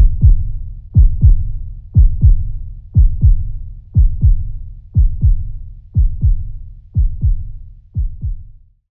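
Heartbeat sound in the soundtrack: a low double beat, like a lub-dub, about once a second. The beats grow gradually weaker and stop just before the end.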